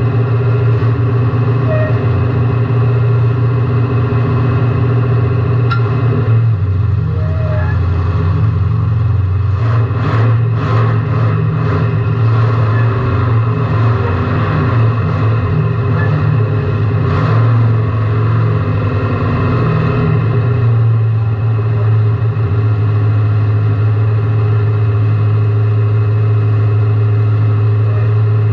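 A car engine running loudly, heard from inside the cabin, with its pitch shifting a little in the middle before it settles into a steady run. A few brief knocks sound around ten seconds in and again near seventeen seconds.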